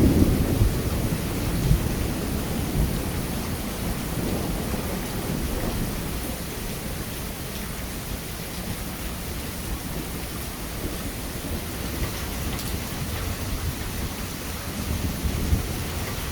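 Steady heavy rain with low rolling thunder. The thunder is loudest at the start and dies away over the first few seconds, and another rumble swells up near the end.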